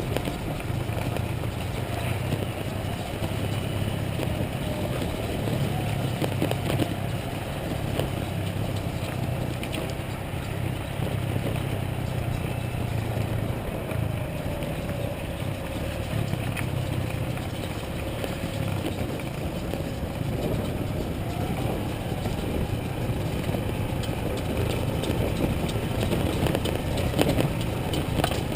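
Motorcycle engine running steadily while riding, with road and wind noise; its pitch dips and rises slightly.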